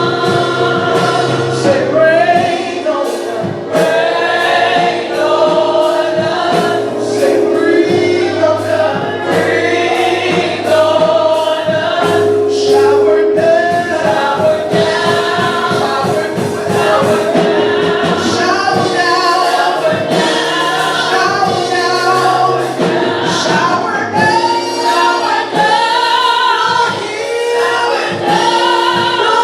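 Gospel choir singing with a band: sustained bass and keyboard notes under the voices, and steady percussion strikes throughout.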